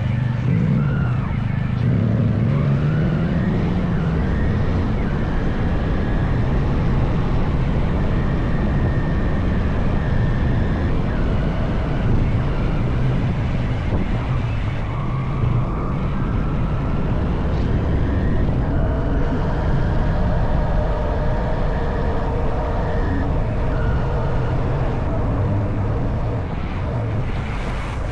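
Honda CB190R's single-cylinder engine running under way on the road, its pitch rising and falling with the throttle.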